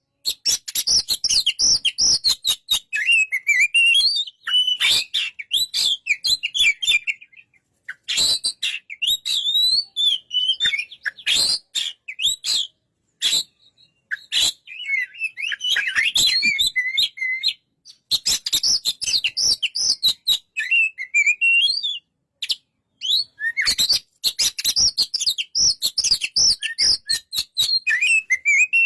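Oriental magpie-robin (kacer) singing: a fast, varied song of whistled notes and sharp chattering clicks, delivered in phrases of several seconds with short pauses between them.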